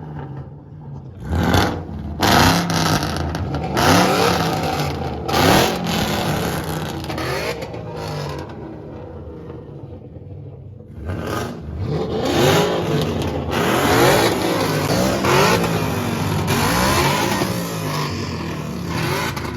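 Car engines being revved at a car meet, the pitch climbing and dropping in a string of short revs. There is a quieter spell in the middle, then a quick succession of revs near the end.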